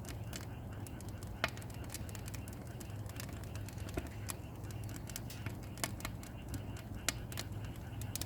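Small pine firewood pieces burning and crackling, with irregular sharp pops over a low steady hum; a few louder pops stand out, the first about a second and a half in.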